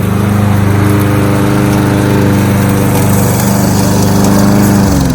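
Kohler XT-675 single-cylinder engine on a Yardworks push lawnmower running steadily at mowing speed, then shutting off near the end with its pitch winding down as it coasts to a stop.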